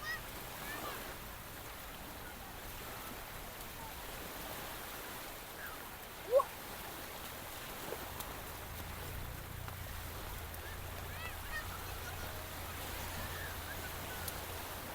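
Steady wash of sea surf on a beach, with faint distant voices. About six seconds in comes one short, loud, rising squeak, and from about eight seconds a low steady drone joins in.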